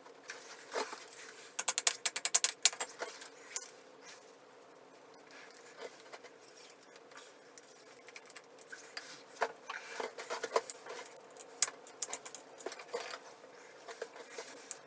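Small metal hardware, toilet flange bolts with their nuts and washers, clinking and rattling as they are handled, with a quick burst of clicks about two seconds in and then scattered taps.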